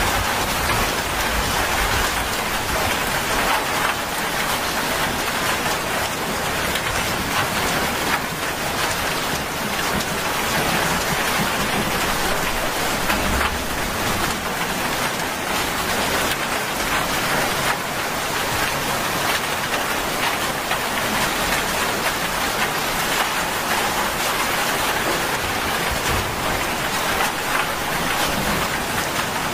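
Heavy rain falling steadily on a wet paved road and roadside vegetation, an even hiss of drops.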